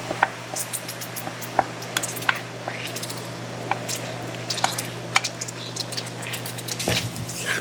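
Crispy fried chicken crunching and crackling: irregular sharp, crisp clicks scattered through, over a steady low hum.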